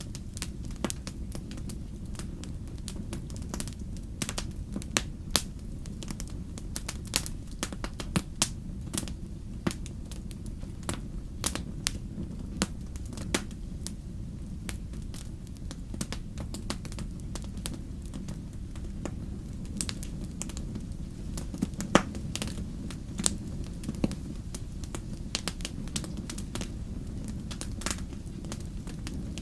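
Wood fire crackling in a fireplace: irregular sharp pops and snaps over a steady low rumble of flames, with one louder pop about two-thirds of the way through.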